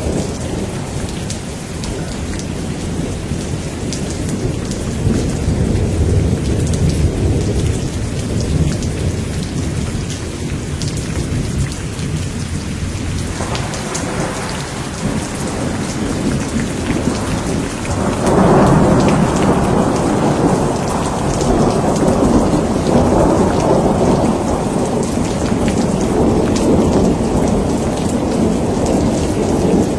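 Steady rain with rolling thunder rumbling underneath. A louder, fuller roll of thunder comes in about eighteen seconds in.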